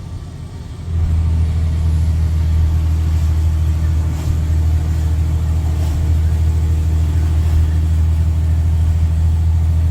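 Straight-piped Cummins C8.3 inline-six diesel running with open exhaust: quieter for about a second, then coming back loud about a second in and holding a steady, deep, throaty drone under load.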